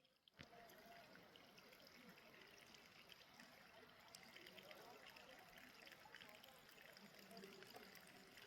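Faint running water, pouring and trickling steadily, starting suddenly about half a second in.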